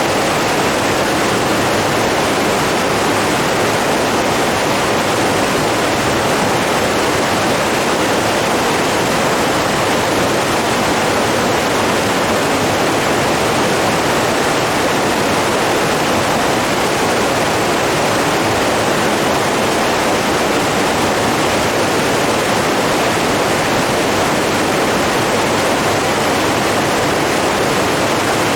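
Running water rushing steadily, an even, unbroken hiss with no separate splashes or changes.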